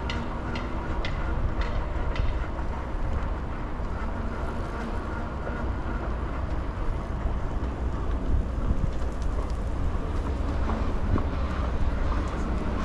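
Steady low rumble of riding noise and city street traffic heard from a moving scooter, with a few faint clicks in the first couple of seconds.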